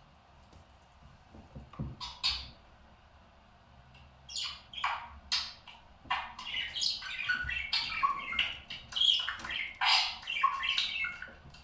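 A pet parrot calling: a couple of short squawks about two seconds in, then a rapid, busy run of squawks and chirps from about four seconds in until near the end.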